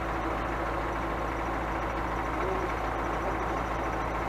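Steady engine and road noise of a Scania truck running, with an even hum and no change in pace.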